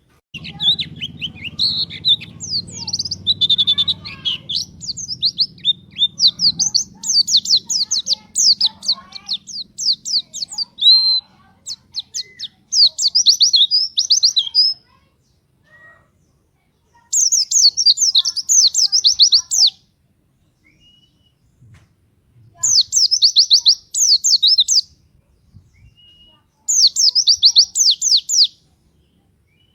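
White-eye (pleci) singing fast, high-pitched chattering song in rapid-fire bursts. One long unbroken run is followed by three shorter bursts of two to three seconds each, with pauses between. This is the energetic 'gacor' song used as a lure to set other white-eyes singing.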